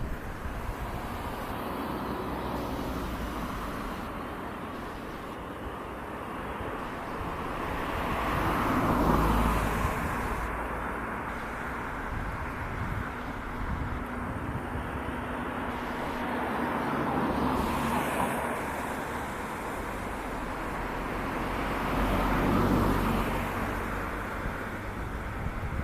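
Road traffic: cars passing one after another over a steady background hum, each swelling up and fading away, the loudest about nine seconds in and again a little past twenty-two seconds.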